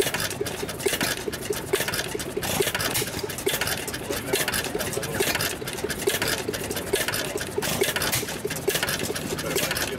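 St Marys gearless hit-and-miss stationary gas engine running: a quick, even ticking with a louder beat about once a second.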